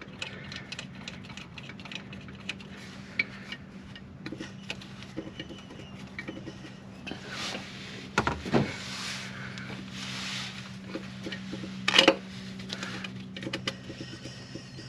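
Small metal clicks and clinks of connecting-rod parts and bearing shells being handled, with two sharper knocks about eight and twelve seconds in, over a steady low hum.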